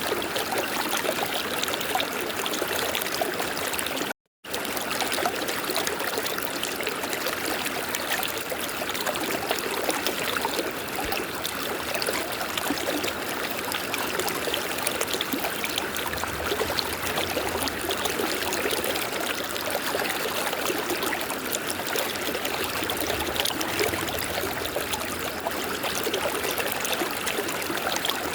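River water running in a steady flow. The sound cuts out completely for a split second about four seconds in.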